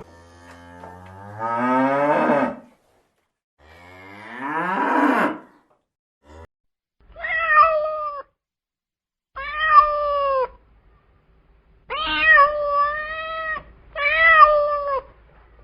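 A cow mooing twice, long low calls that rise in pitch, followed by a cat meowing four times.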